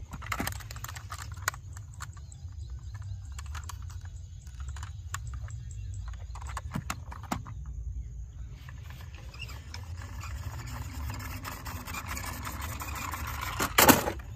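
Diecast toy cars being handled: scattered light clicks and knocks of small metal and plastic pieces, with a louder clatter near the end, over a steady low hum.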